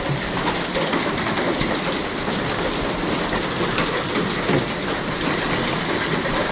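A heavy downpour of rain mixed with small hailstones hitting the ground and surrounding surfaces: a dense, steady hiss with many scattered sharp ticks from the hail.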